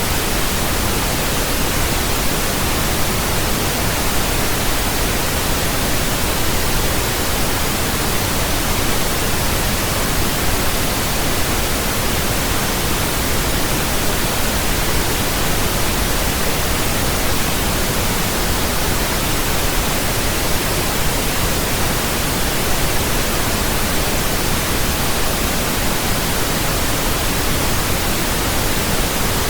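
Steady pink noise: an even, unchanging hiss spread across the whole range, fuller in the low end than white noise.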